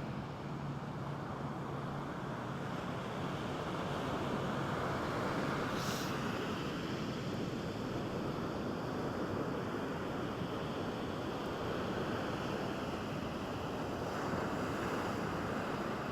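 Ocean surf washing on the beach: a steady rush of breaking waves that swells twice, with a brief hiss of spray about six seconds in.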